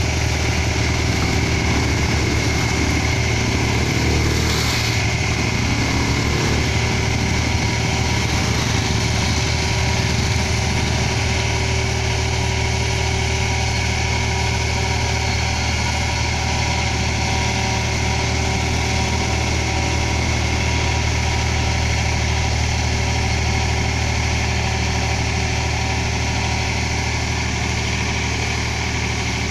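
Diesel engine of a road-construction machine running steadily at a constant speed.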